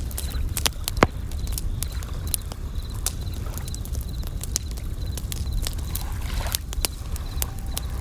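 Campfire crackling with many sharp pops, one louder pop about a second in, over a steady low rumble. Bell crickets chirp in short, high, repeated trills throughout, and a wave washes in a little after the middle.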